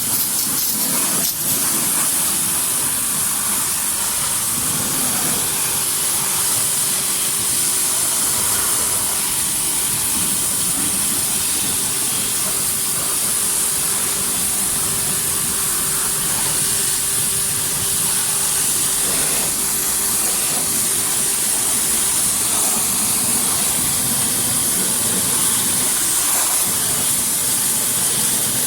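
Steady hiss of a high-pressure water jet spraying hot water over a car's engine bay, rinsing off the foam. A faint steady hum runs under it for a while in the middle.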